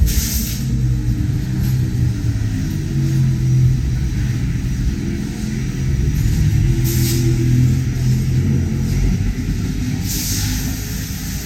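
Racing car engines running at a fairly steady low pitch that shifts a little, with brief hissing gusts at the start, about seven seconds in, and near the end.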